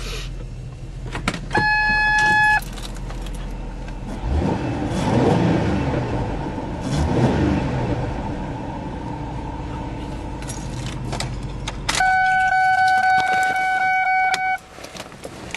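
A 2005 Ford Taurus's 3.0-litre Vulcan V6 idles after a cold start, with some rising and falling engine sound in the middle. The engine sound stops about twelve seconds in. Two long steady tones are the loudest sounds: one about a second long near the start, and one about two and a half seconds long as the engine sound stops.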